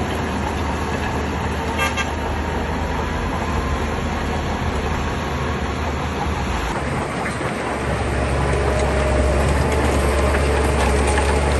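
Shantui bulldozer's diesel engine running steadily under load as it pushes stone. It changes abruptly about seven seconds in and runs louder afterwards.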